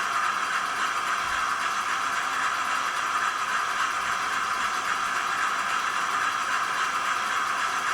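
Model locomotive's DCC sound decoder playing a diesel engine sound through its small onboard speaker: a steady, even drone.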